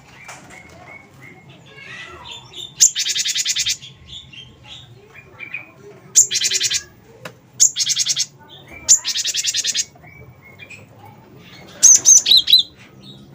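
Cinereous tit (gelatik batu) singing: four loud, fast rattling trills of under a second each, with gaps of about a second, then a few short, sharp high notes near the end, over fainter chirps.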